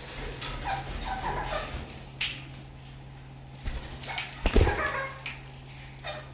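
Red-crowned kakariki parakeets giving short chattering calls, with a loud thump about four and a half seconds in.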